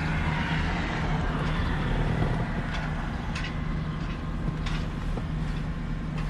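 Chevrolet Silverado 3500 HD engine idling steadily, heard from inside the cab, with a few light clicks partway through.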